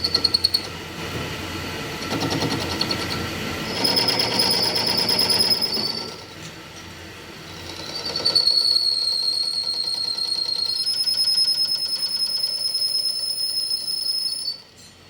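Metal being machined: a high-pitched squeal over a rapid chatter, typical of a cutting tool working steel or iron. It comes in several runs, with a quieter gap about six seconds in and a longer run after it, and stops shortly before the end.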